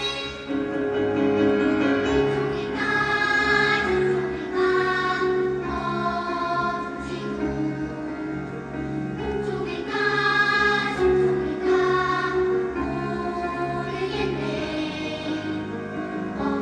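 Children's choir singing, with held notes in phrases a few seconds long.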